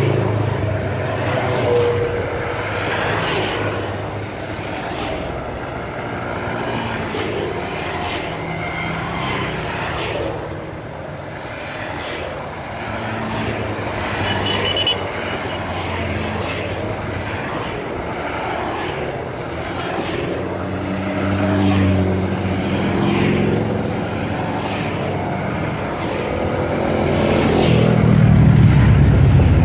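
Motorcycle engines running on a road ride, their pitch rising and falling with the throttle, over a rushing noise, loudest near the end.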